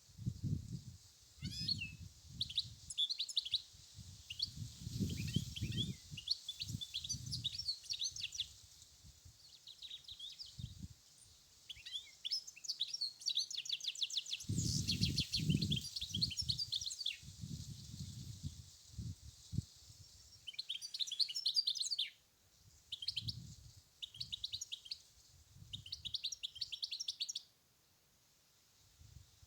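European goldfinch singing: phrases of fast twittering trills and chirps with short pauses between them, over a steady high hiss. Low rumbles come and go underneath, loudest around the middle.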